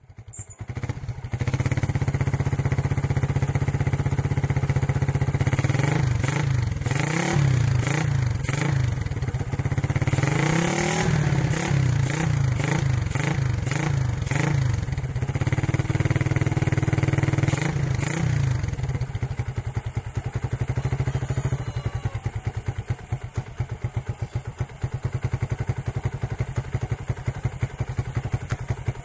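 Yamaha Vixion single-cylinder 150 cc four-stroke engine through a Suzuki Satria F stock CKD muffler with its baffle drilled out. It idles, is revved in repeated blips from about six to eighteen seconds in, then settles back to an idle with an even pulsing beat.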